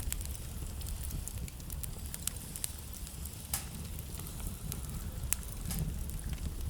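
Wood fire burning in a fireplace: a steady low rumble of the flames with irregular sharp crackles and pops from the burning logs, two of them louder about halfway through and near the end.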